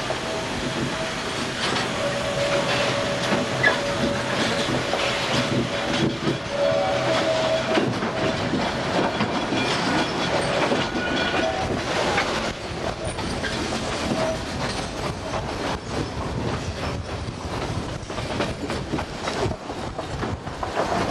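Narrow-gauge Roaring Camp steam train running through the forest, heard from aboard: a steady clatter of wheels over the rails. A thin, high wheel squeal comes and goes through the first half.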